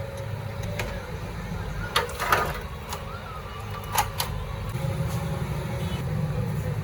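Steady low engine rumble with a few sharp metallic clinks, about two seconds in and again at four seconds; the rumble grows a little louder near the end.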